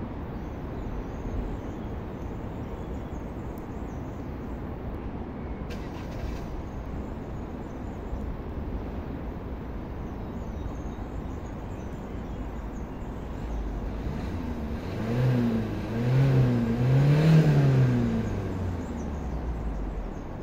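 Peugeot 308 1.6 BlueHDi 100 four-cylinder turbodiesel idling steadily, heard at the exhaust with the car standing still. About fifteen seconds in it is revved three times in quick succession, the third rev the highest and longest, then drops back to idle.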